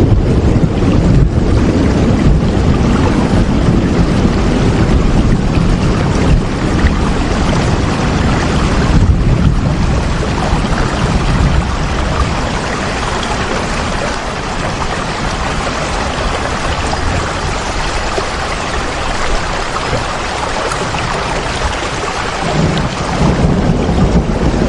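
Heavy rain, a dense steady hiss, with a deep low rumble underneath that eases off about halfway through and builds again near the end.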